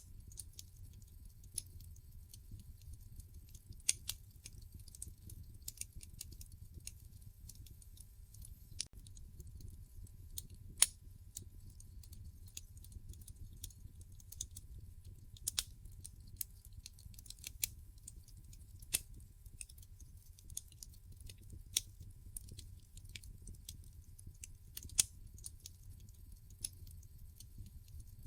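Wood fire crackling in a fireplace: irregular sharp pops and snaps over a low, steady rumble, with one louder snap about eleven seconds in.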